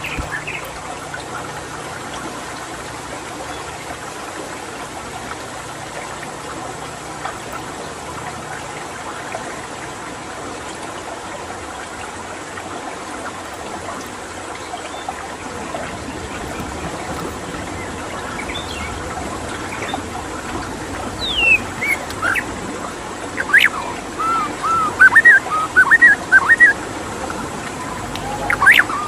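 Steady trickling of running water, with a white-rumped shama singing over it from about two-thirds of the way in: loud whistled glides and quick runs of repeated notes that grow denser near the end.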